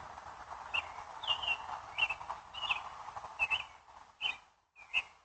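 An animal chirping: about eight short, high calls, roughly one every two-thirds of a second, over a steady background hiss.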